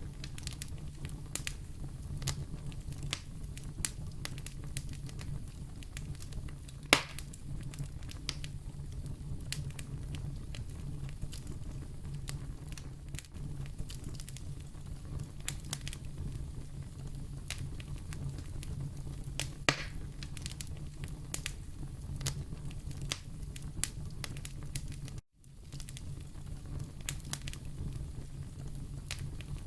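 Wood fire in a fireplace crackling over a steady low rumble, with frequent small pops and two louder snaps about a quarter and two-thirds of the way through. The sound drops out for a split second near the end.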